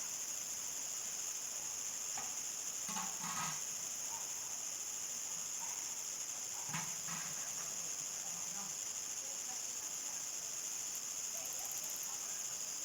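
Field crickets chirring in a steady, continuous high-pitched chorus. Two brief, faint lower sounds occur about three and seven seconds in.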